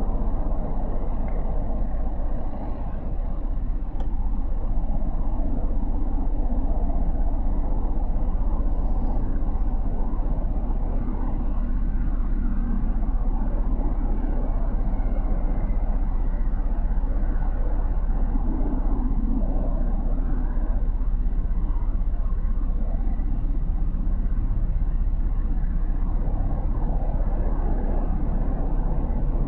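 Motorcycle riding through city traffic: engine running with a steady low rumble of road and wind noise.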